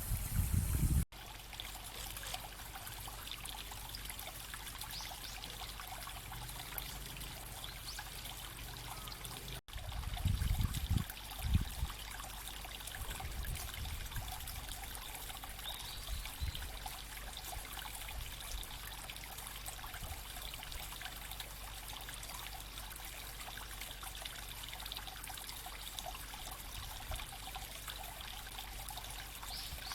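Small brook babbling steadily. There are a few brief low rumbles about ten seconds in.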